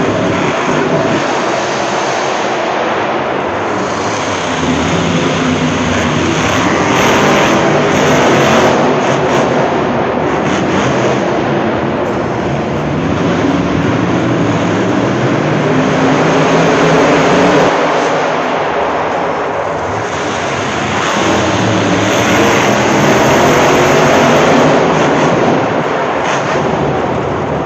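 Monster truck engine running loud and continuous, swelling and easing off several times as it is revved.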